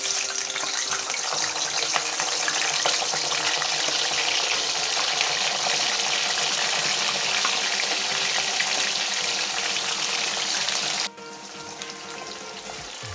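Raw jackfruit pieces sizzling loudly as they are dropped into hot refined oil in a kadai for deep frying. About eleven seconds in, the sizzle drops suddenly to a softer, steady frying hiss.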